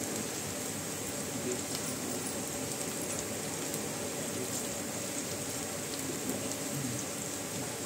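Chopped onion, green chillies, curry leaves and peanuts sizzling steadily in hot oil in a non-stick kadai while a silicone spatula stirs them, with a few faint scrapes.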